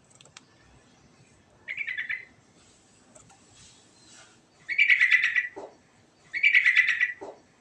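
Yellow-vented bulbul (trucukan) singing three short phrases of quick notes, the second and third longer and louder than the first.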